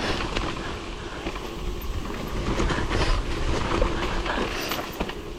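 Bike rattling and clattering over rough, bumpy ground on a fast descent, with wind rumbling on the microphone.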